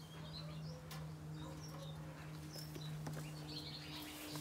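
Small birds chirping faintly over a steady low hum, with a couple of light knocks about one and three seconds in.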